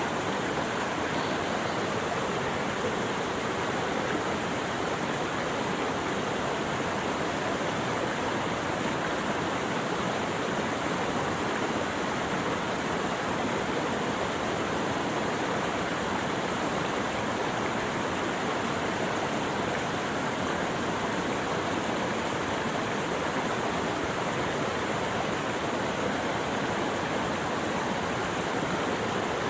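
Steady rush of running water, an even, unbroken noise that does not change.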